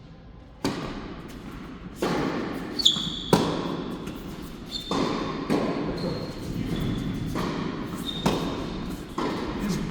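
Tennis rally on an indoor court: sharp racket strikes and ball bounces every second or so, echoing off the hall, with short high squeaks of shoes on the court between them.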